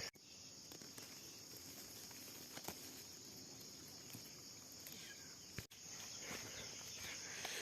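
Faint, steady, high-pitched chirring of insects, with a couple of soft ticks.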